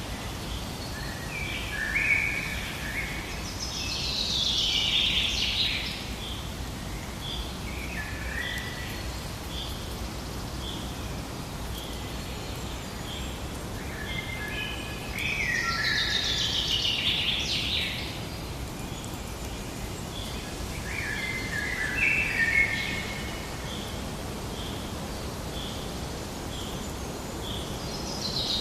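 Forest birdsong: songbirds sing rapid, trilling, falling phrases every few seconds, the longest a little after the start and about halfway through. Under them a single small chirp repeats about every three-quarters of a second, over a steady low background hiss.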